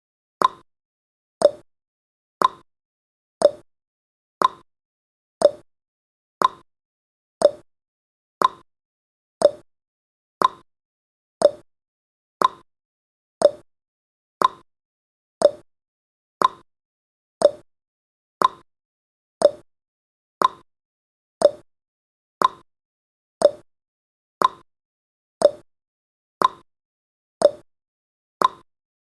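A countdown timer's ticking sound effect: a short click once every second, evenly spaced.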